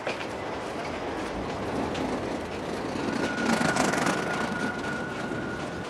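Train running on rails with scattered clicks; a steady high squeal comes in about halfway through and holds nearly to the end.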